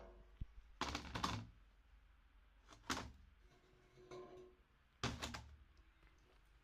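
Hard candy clattering and cracking in a meat grinder, in three short bursts: about a second in, about three seconds in, and about five seconds in.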